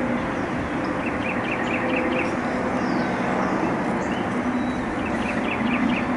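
A songbird singing two quick runs of about six short repeated chirps, a few seconds apart, over a steady rushing background noise with a faint low hum.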